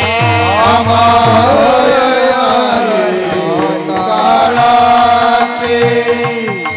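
Devotional kirtan singing: a voice draws out a long, ornamented melodic phrase with sliding notes over a steady harmonium drone, with hand-drum strokes underneath.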